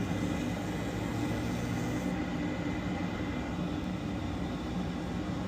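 Trane gas furnace running in heat mode on propane, its burners lit: a steady drone of the fan motor and burner flame.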